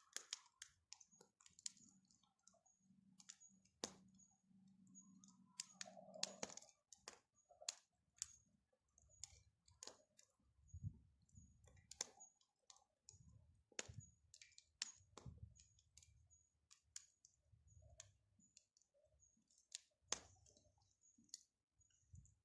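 Faint crackling of a wood bonfire: irregular sharp snaps and pops, a few louder ones standing out.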